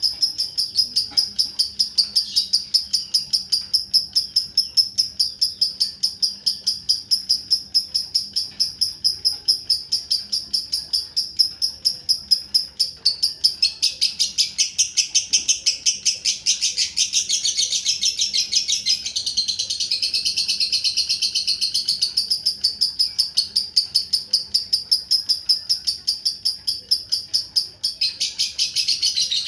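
Lovebird singing a long unbroken chattering trill of fast repeated high notes, about four a second, without a pause; it turns rougher and broader about halfway through, then settles back.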